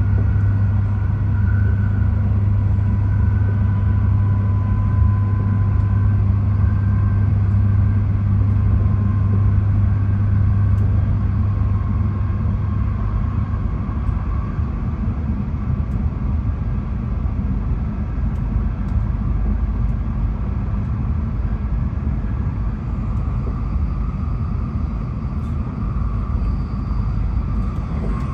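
E6 series Shinkansen running at speed: a steady rumble from the wheels and running gear, with a faint whine from its Hitachi IGBT traction inverter and motors drifting slightly in pitch. The low rumble eases about halfway through.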